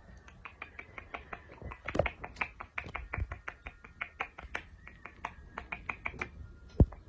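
A rapid series of sharp clicks, about four or five a second, stopping near the end, followed by a single louder thump.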